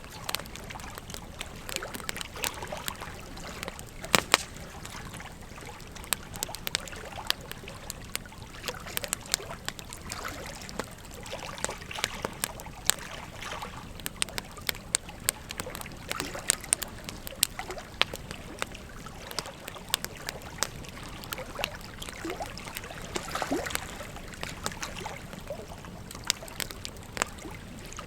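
Wood fire crackling, with frequent irregular sharp pops and snaps, over the steady rush of a river.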